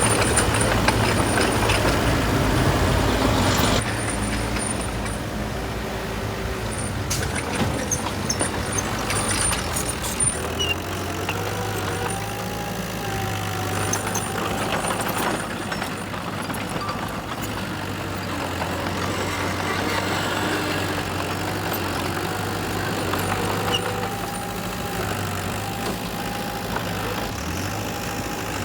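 Heavy diesel engines of construction machinery (dump trucks and a bulldozer) running, loudest for the first four seconds and then settling to a steady engine drone. A few sharp clanks come between about seven and ten seconds in.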